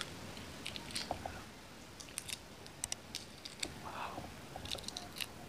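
Scattered small, sharp clicks and crackles of a boiled duck egg's (balot's) shell being picked and peeled off by fingers.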